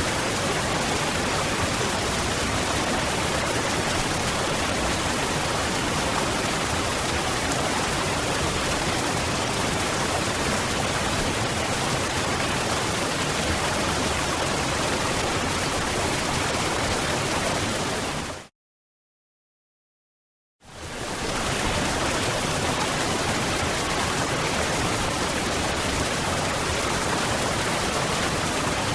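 Steady rush of a waterfall, falling water making an even, unbroken noise. About two-thirds of the way in it fades out quickly to complete silence for about two seconds, then fades back in.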